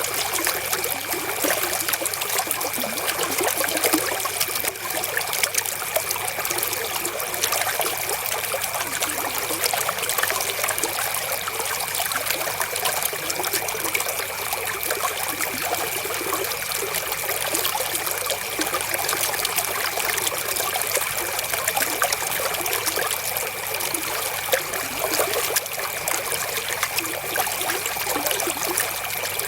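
River water flowing and trickling over stones in a steady, unbroken rush, with a faint steady high tone underneath.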